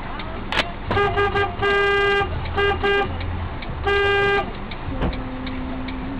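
Car horn honking: a quick run of short toots, then a longer blast, two more short toots and a second long blast. A single sharp click comes just before the honking starts.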